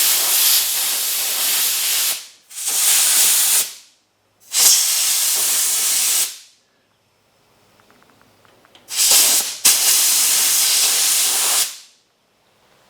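Compressed air hissing from an air chuck at a hydraulic cylinder's fitting, in about five bursts of one to two seconds each with short gaps between them. Shop air at about 135 psi is being used in place of hydraulic oil to work the cylinder for a test.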